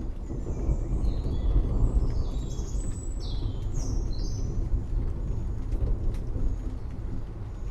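Forest rain ambience: a steady low rumble of rain and distant thunder, with birds chirping in short high notes through the first half and a few sharp drip-like ticks.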